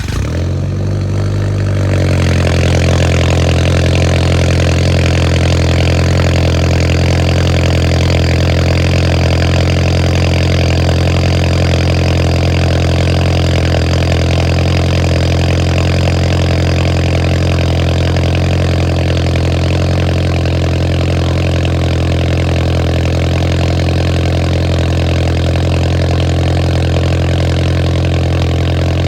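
Audi A4 B7 engine breathing through a CTS test pipe (catalytic converter removed) and a full 3-inch cat-back exhaust, on a cold start. It catches and the revs climb over the first couple of seconds. Then it settles into a loud, steady, droning high idle, typical of a cold engine warming up.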